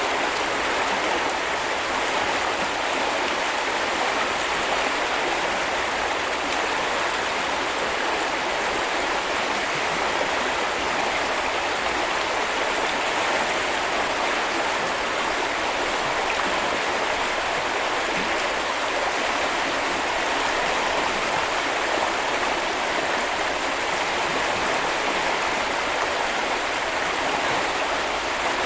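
River water running and splashing over stones in a steady, even rush.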